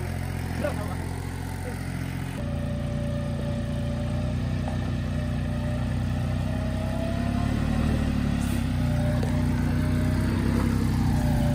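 A motor vehicle's engine running steadily. About two and a half seconds in its note changes and it grows a little louder.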